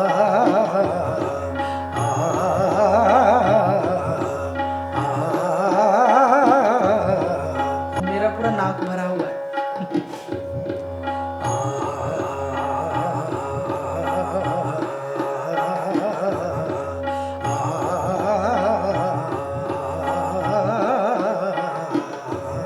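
Indian classical scale practice: a melodic line climbing up and down the scale in repeated runs of a few seconds, over a steady drone and a looping tabla rhythm.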